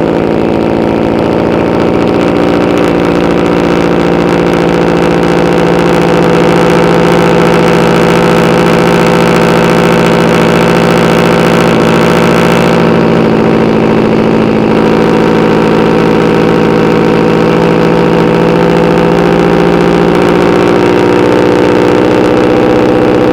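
2013 Subaru WRX's turbocharged flat-four idling steadily through Tomei unequal-length headers, a catless downpipe and a Tomei cat-back exhaust.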